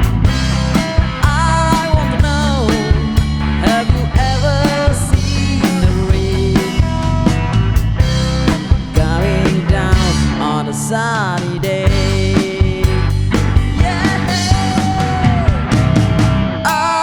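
Rock band playing an instrumental passage: an electric lead guitar melody with bent notes and vibrato over bass guitar and a steady drum beat.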